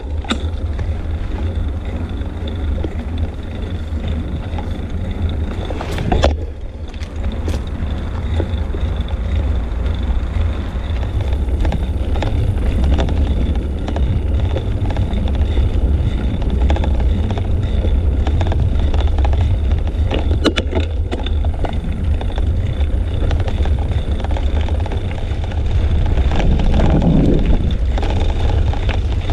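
Wind noise on a bicycle-mounted action camera's microphone while riding, a steady low rumble mixed with road noise. A couple of sharp knocks come through, about six seconds in and again about twenty seconds in.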